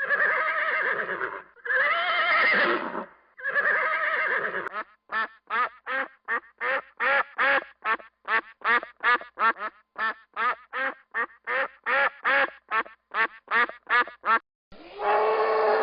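Three long, wavering horse whinnies, then a duck quacking in a fast run of short quacks, about three a second, for nearly ten seconds. A new long, low animal call starts just before the end.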